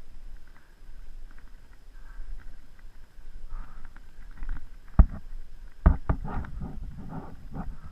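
Rustling and handling noise from a player moving through woodland, with sharp knocks about five and six seconds in.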